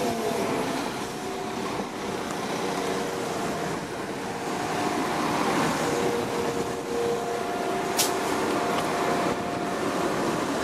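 West Midlands Railway diesel multiple unit running along the platform, a steady rumble of wheels on rails with thin whining tones coming and going. There is one sharp click about eight seconds in.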